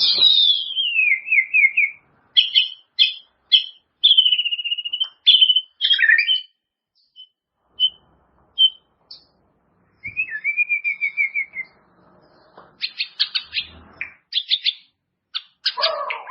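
White-rumped shama (murai batu) singing a string of varied phrases: a falling whistle that runs into a quick trill, short clipped notes, a held whistle, then after a pause another trill and a burst of rapid stuttering notes near the end.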